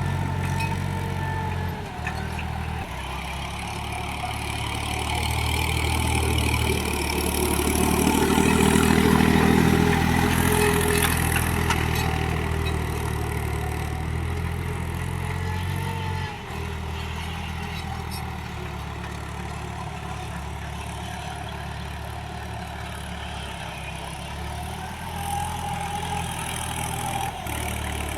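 Mahindra 295 DI tractor's diesel engine running steadily, as when pulling a nine-tine cultivator. It grows louder for a few seconds near the middle, and its tone shifts abruptly a few times.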